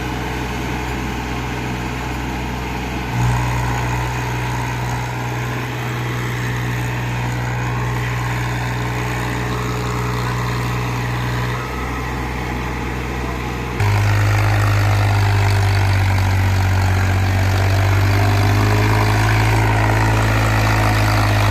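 Massey Ferguson 7250 DI tractor's diesel engine running hard under load as it strains to pull a stuck, loaded trolley. It is a steady low drone that steps up in strength a few times and is loudest from about two-thirds of the way through.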